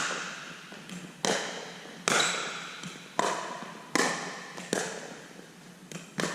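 A pickleball rally: paddles striking the plastic ball in sharp pops about once a second, seven hits in all, each with a short ringing echo under the pavilion roof, with a few lighter taps of the ball bouncing in between.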